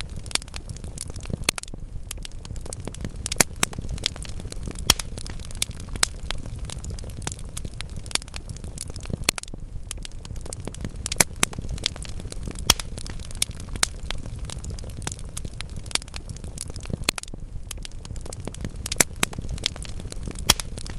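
Wood fire burning in a fireplace: a steady low rumble of flames with frequent sharp crackles and pops from the burning logs at irregular intervals.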